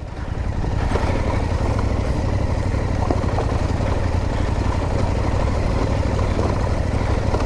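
Parallel-twin adventure motorcycle engine running at low speed on a rough off-road lane, picking up over the first second, then holding a steady rumble.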